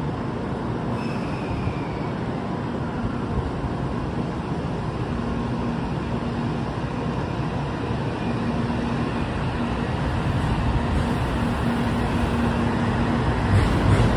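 N700 series Shinkansen train moving slowly alongside a platform: a steady rumble of wheels on rail with a low hum that comes and goes. It grows louder over the last few seconds as the cars pass close by.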